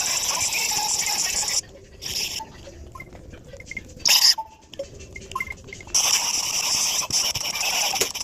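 Scratching, scraping noise in bursts: a long run at the start, two short scrapes in the middle, and another long run near the end, with quiet gaps between.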